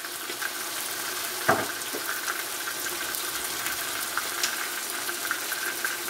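Chicken pieces with onions and spices frying in oil in a pan, a steady sizzle with small crackles. A single sharp knock sounds about one and a half seconds in.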